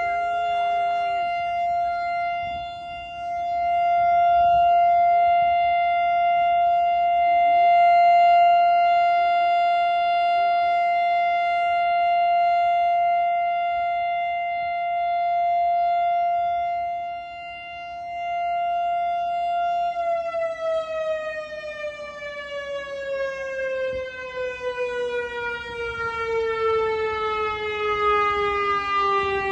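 Large outdoor warning siren sounding a steady tone that swells and fades in loudness, then winding down about two-thirds of the way in, its pitch falling steadily.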